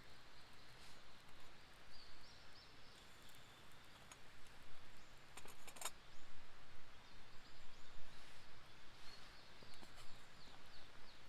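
Small birds calling with short, high chirps in two runs, one early and one near the end, over quiet outdoor background noise. A brief cluster of sharp clicks about halfway through.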